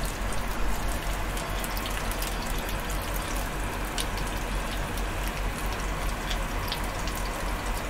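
Slices of squash frying in hot oil in a grill pan: a steady sizzle with small crackles and spits of oil.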